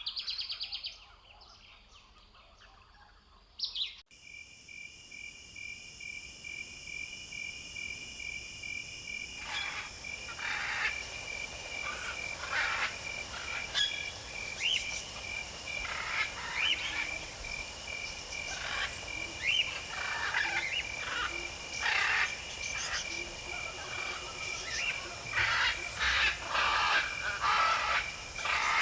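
Outdoor nature ambience: a steady, fast, evenly pulsing high chirring chorus, with many short bird calls over it from about ten seconds in. It cuts in about four seconds in, after a brief rapid trill and a few quieter seconds.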